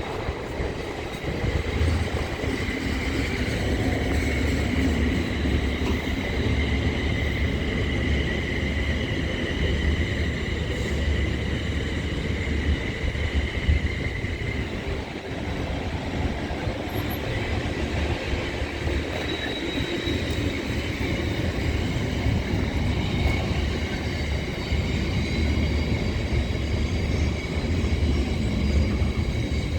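A train running past on the line: a steady rumble of wheels on rail, with a high steady whine over it that fades out about halfway through.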